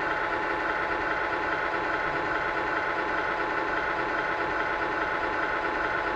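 Electronic diesel semi-truck engine idle sound from an RC truck's sound kit, played through its small onboard speaker. It idles steadily with a thin, tinny low end.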